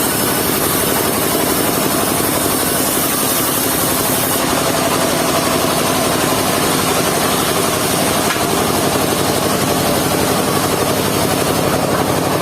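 A mobile circular sawmill running steadily: a continuous engine drone with a high hiss over it that eases about four seconds in.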